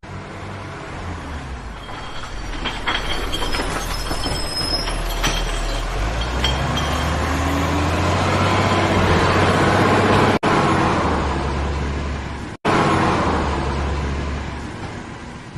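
Heavy vehicle engine running with a low rumble that grows louder, with a few light metallic clanks in the first seconds. The sound cuts out abruptly twice for an instant near the end and then fades.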